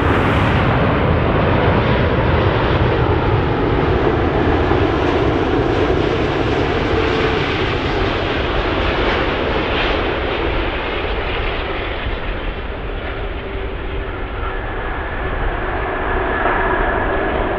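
Jet engines of a large airliner coming in to land: a loud, steady rushing noise with faint whining tones. It eases slightly about two-thirds of the way through, then swells again near the end.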